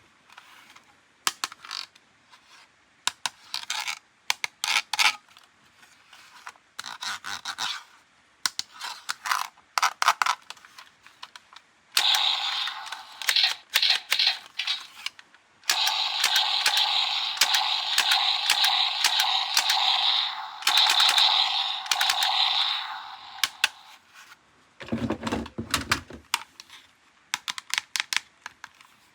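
Plastic toys and packaging being handled in an unboxing: runs of sharp clicks and taps. A long stretch of dense rustling runs through the middle, and there is a dull thump near the end.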